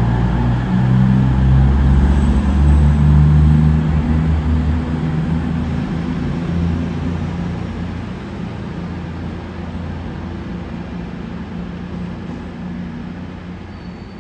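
Diesel train's engine running, loudest a few seconds in, then fading steadily as it moves away.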